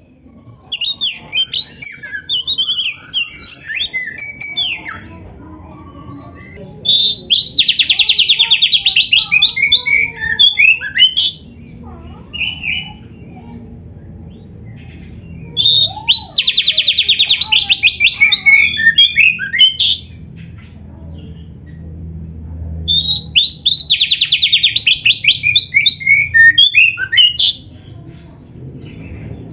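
Oriental magpie-robin (kacer) singing loudly: varied whistled phrases broken by three bouts of very rapid, buzzy repeated notes, each lasting about four seconds.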